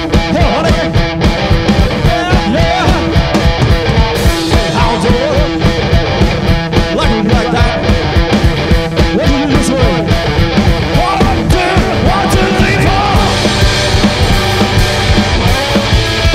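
Punk-blues band playing live: electric guitar with bending lead lines over a fast, steady drum beat.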